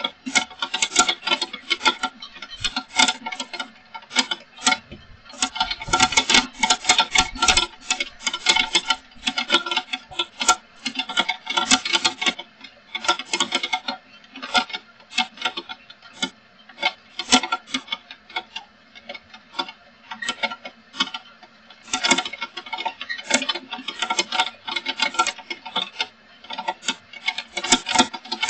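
Heavy rain: drops striking hard surfaces in a dense, rapid patter of ringing ticks that swells and eases every few seconds.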